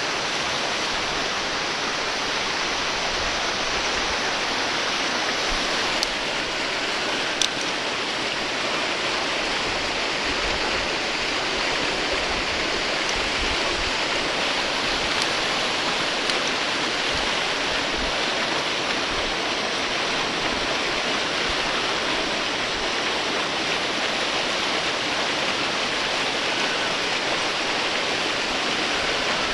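Waterfall: a steady, even rush of falling water, with two brief clicks about six and seven and a half seconds in.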